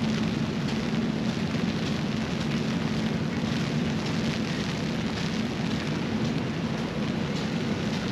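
Steady rain falling, a continuous even hiss with a low steady drone underneath.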